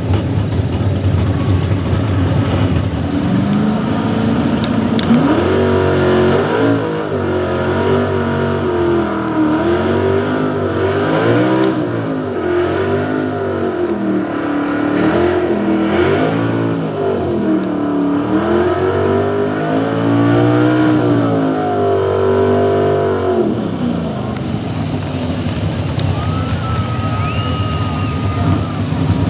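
Small-block V8 4x4 pulling truck at full throttle pulling the sled, revs climbing a few seconds in and then surging up and down, as a pulling engine does when the tyres spin and catch on a slick track. The engine shuts off about three-quarters of the way through as the run ends.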